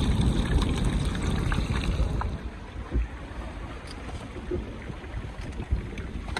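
Wind buffeting the microphone on a beach, a heavy low rumble for about two seconds that then eases off, with a few faint clicks.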